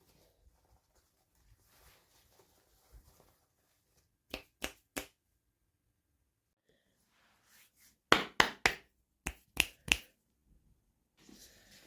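Sharp clicks and taps of small plastic toy pieces and packaging being handled: three clicks near the middle, then a quicker run of about seven louder ones a few seconds later, with faint rustling between.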